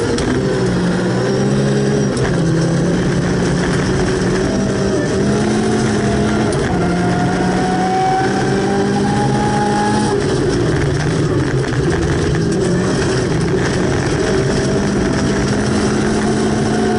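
Volvo 240 rally car's engine heard from inside the cabin, driven hard on a gravel stage, its pitch holding and then stepping up and down every second or two with gear changes and lifts of the throttle.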